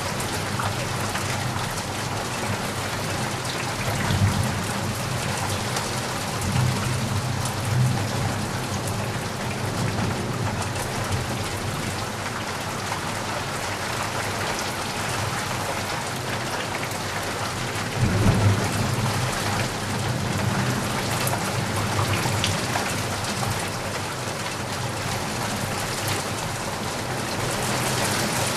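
Steady rain falling, with low rumbles of thunder swelling a few seconds in, again around seven to eight seconds, and most strongly around eighteen seconds.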